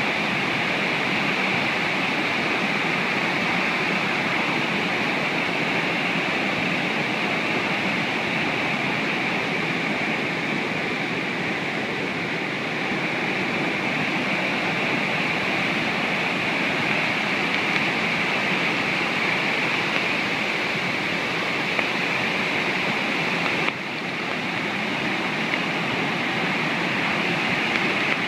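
Rushing water, a steady dense rush of flowing water such as a waterfall or river rapids, with a slight momentary drop about 24 seconds in.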